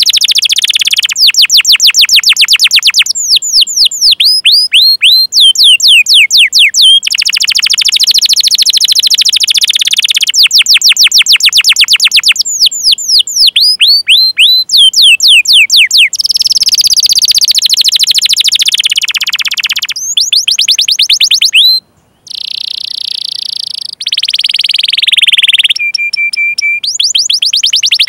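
Domestic canary singing a long song: fast trills of repeated down-sweeping high notes alternating with dense rolling phrases, broken only by a short pause about 22 seconds in.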